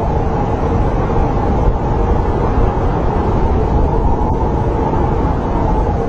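Snowstorm wind blowing steadily, a low rumble with a faint wavering howl over it.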